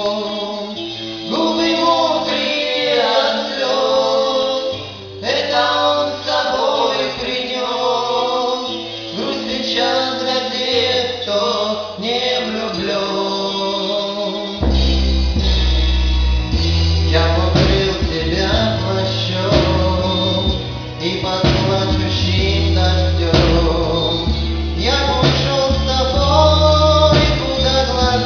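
A song with sung vocals over an accompaniment; a deep bass line comes in about halfway through.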